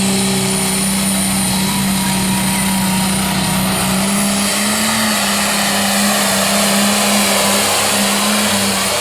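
Pulling tractor's engine running flat out under heavy load during a pull, a loud steady drone that rises slightly in pitch about halfway through.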